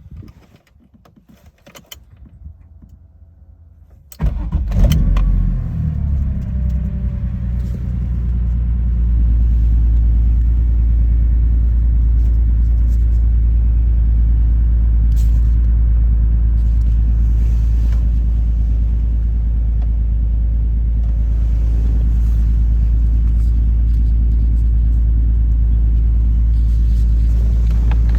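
A few faint clicks, then about four seconds in a BMW S54 straight-six, swapped into an E30, cranks and catches on a cold start. It runs unevenly for a few seconds, then settles into a steady idle.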